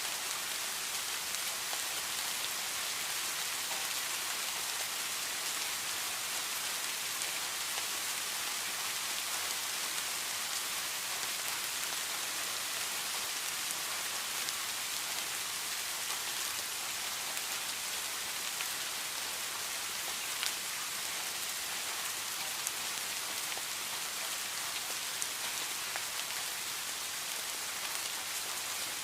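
Steady heavy rain: an even hiss of falling water, with scattered drops pattering now and then.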